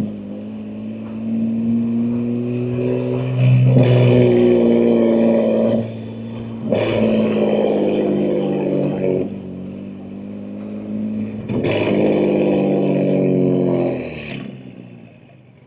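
BMW M2 G87's S58 twin-turbo inline-six, fitted with catless downpipes and an equal-length mid pipe, accelerating in four pulls with short dips between them as the manual gearbox is shifted, the second pull the loudest. It eases off to a quiet cruise near the end.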